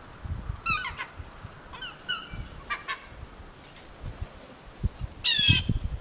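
Gulls calling: several short cries with falling pitch, then a louder, longer call near the end.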